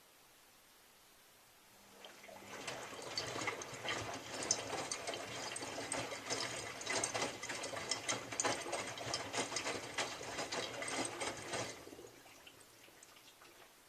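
Miele W3744 washing machine drum turning for about ten seconds over a low motor hum, wet laundry and water sloshing and splashing inside, during the wash tumble of a Minimum Iron 40 programme. It starts about two seconds in and stops near the end.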